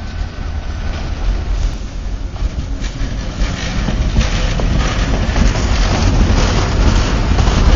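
Electric locomotive BB 26024 hauling a Talgo train rolls past at close range: a rumble of wheels on rail that grows steadily louder.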